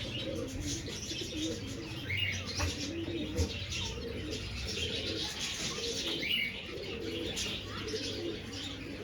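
Several domestic pigeons cooing, the low rolling coos overlapping one another.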